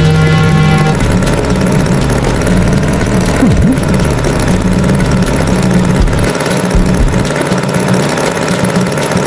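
Cartoon tractor engine sound effect running steadily with a pulsing low rumble. A short tone sounds at the start, and a brief sliding sound comes about three and a half seconds in.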